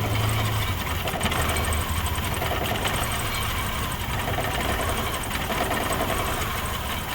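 Car engine idling steadily while it shakes violently, a fault the mechanic traces to a bad intake air temperature sensor built into the MAP sensor.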